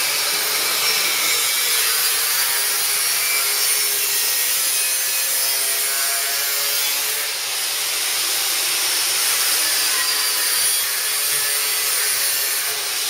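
Lincoln MIG welder arc crackling and hissing steadily as it lays a bead joining a steel exhaust flange to the pipe; the sound stops abruptly at the very end.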